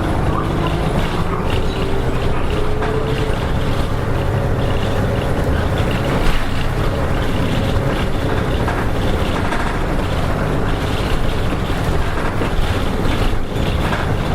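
Nishitetsu KK-RM252GSN route bus heard from inside while driving: steady diesel engine drone with road noise. A faint tone rises in pitch over the first few seconds.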